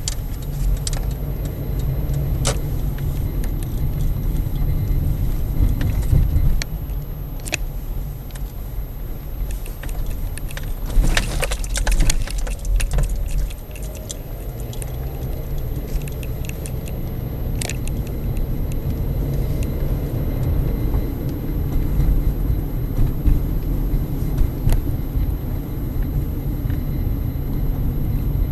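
Steady low rumble of a vehicle in motion, with scattered rattling clicks that bunch together about eleven to thirteen seconds in.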